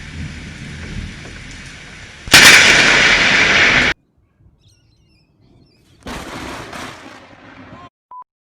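A close lightning strike: a sudden, very loud thunder crack about two seconds in, which cuts off abruptly, over a steady hiss. A second, quieter stretch of hiss follows later, then a brief beep near the end.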